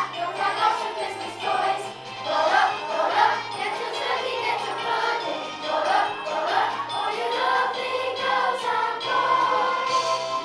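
A children's choir singing a Christmas song over instrumental accompaniment with jingle bells.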